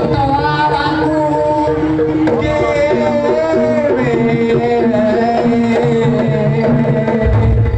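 Live Javanese jaranan music: hand-drum strokes and steady held metallophone tones under a high, wavering melody line with vibrato.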